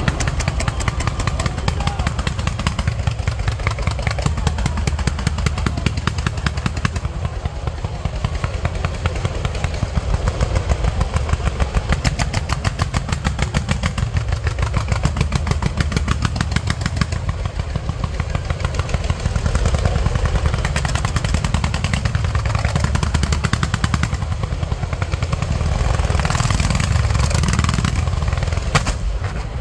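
Fireworks display in a rapid, unbroken barrage of bangs, several a second. Near the end a brighter crackling of glittering stars joins the bangs.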